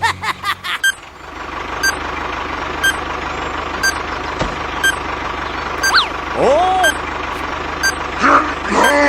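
Vehicle reversing alarm beeping about once a second over a steady engine hum. A few short, gliding voice-like cries come in after the middle and near the end.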